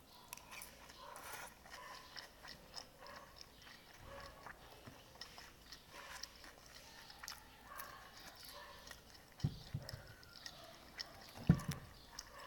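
A person chewing and biting a mouthful of pansit batil patong noodles, with many small wet clicks. Two dull knocks come near the end, the second the loudest.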